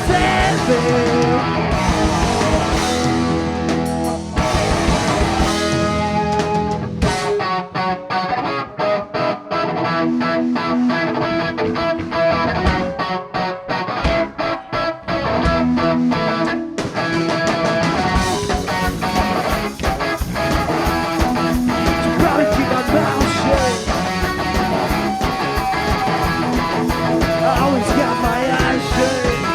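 Live rock band playing an instrumental break with loud electric guitars. About seven seconds in the band thins to a choppy, rhythmic guitar part for roughly ten seconds, then the full band comes back in.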